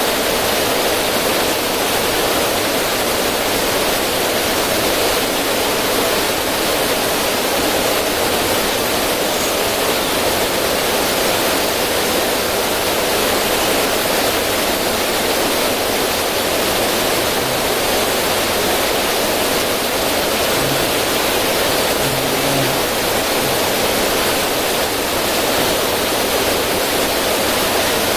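River water running and splashing down over rocks in a small cascade, a steady, even rushing.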